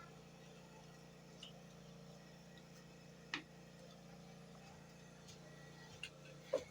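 Quiet room with a steady low hum and a few sharp clicks, like spoons tapping plates during a meal. The loudest comes about halfway through, and two more come near the end.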